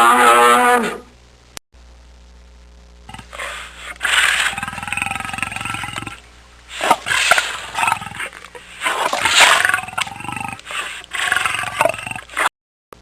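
A cow's moo ending about a second in, then a big cat growling and roaring in a series of rough calls.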